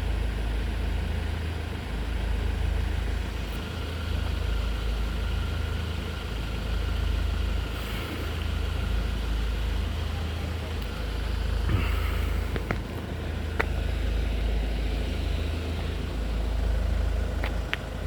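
Road vehicle engine idling with a steady low rumble. A few sharp clicks come about two-thirds of the way in and again near the end.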